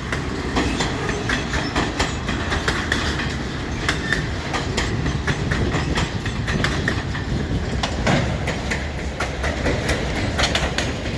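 A freight train's cars rolling past close by: a steady rumble, with the wheels clicking over the rail joints again and again.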